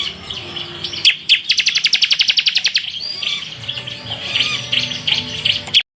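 Bar-winged prinia (ciblek) singing a loud, high song of chirps, with a rapid-fire 'tembakan' run of clipped notes at about a dozen a second in the middle. The song stops suddenly near the end.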